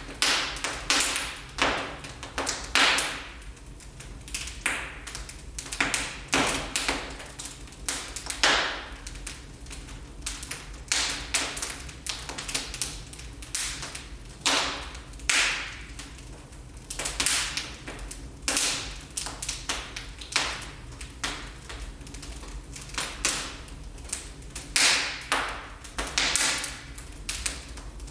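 Wood fire crackling in a fireplace: irregular sharp pops and snaps, several a second, some louder than others, over a low steady hum.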